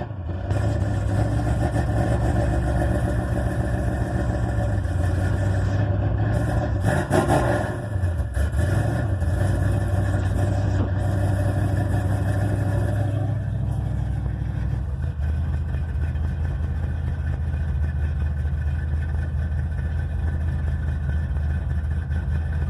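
Cold small-block Chevy V8 with long-tube headers and dual straight pipes to FlowPro V-Force mufflers, no crossover pipe, held at a raised speed of about 2,000 rpm while it warms. About seven seconds in it sags and is given a brief rev. About thirteen seconds in it drops to a lower, steady speed; the cold engine is not yet holding idle on its own.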